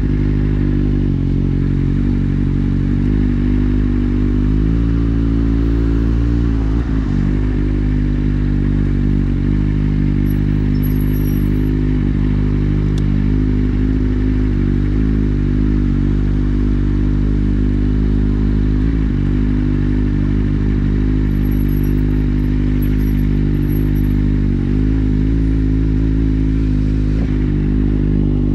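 Kawasaki Z750's inline-four engine running steadily at low revs through an Akrapovic exhaust with the dB killer removed, as the bike rolls slowly in traffic. The engine note dips and rises briefly about five to seven seconds in.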